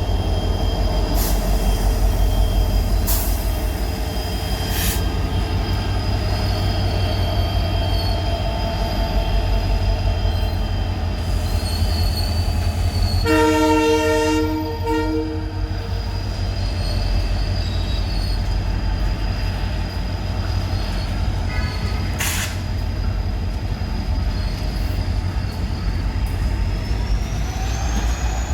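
Twin EMD diesel locomotives, a WDG4 and a WDG4D with 16-cylinder two-stroke 710 engines, humming steadily while hauling a container freight train away. About halfway through there is one horn blast of roughly two seconds, and a few sharp clicks come at scattered moments.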